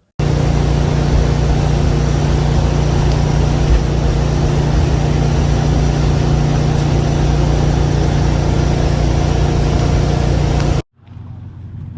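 An engine running steadily at constant speed with a strong low hum. It cuts in abruptly at the start and cuts off abruptly about eleven seconds in.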